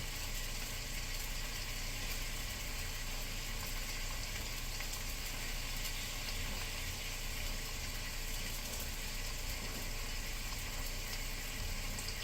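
Food sizzling in a pan on the stove: a steady, even hiss with no breaks.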